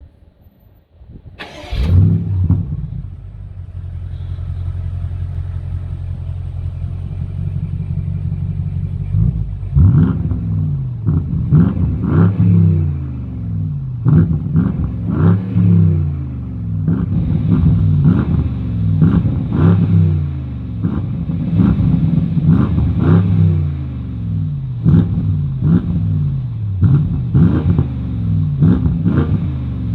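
BMW M850i's twin-turbo V8 exhaust: the engine cranks and fires about a second and a half in, settles into a steady idle, then from about halfway through is blipped over and over in quick revs that rise and fall back to idle.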